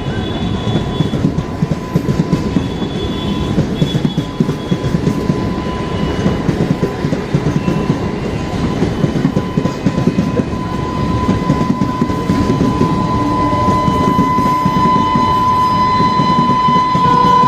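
A train running past on the rails: a dense rumble with rapid clickety-clack of the wheels over the rail joints. Near the end a train horn comes in and grows louder.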